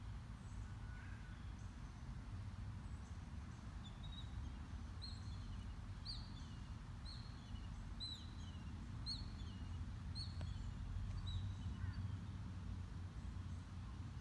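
A bird calling a short, high, repeated note with a falling tail, about once a second, over a steady low rumble of outdoor background noise.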